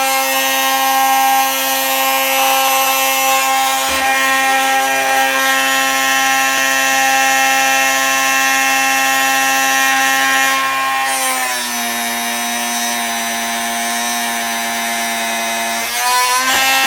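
Drill Doctor 750X drill bit sharpener running with a steady whine while a bit is ground. The pitch drops about two-thirds of the way through and rises again near the end.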